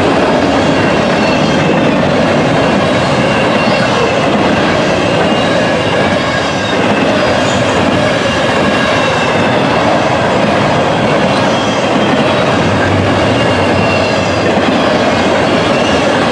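Union Pacific double-stack freight train rolling past: a steady, loud rumble and clatter of wheels on rail, with faint high squealing tones over it.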